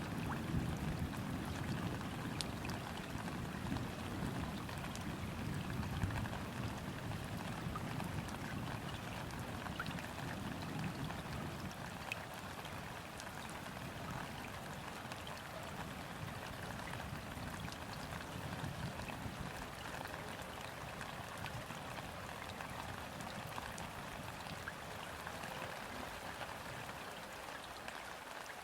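Steady rain falling on a river's surface, a dense hiss of drops with faint individual ticks. A low rumble, which fits distant thunder, sits under it in the first half and fades out.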